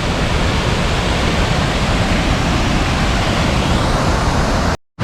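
Steady rushing of snowmelt-fed mountain waterfalls, a dense even roar of falling water. It cuts out abruptly for a moment just before the end.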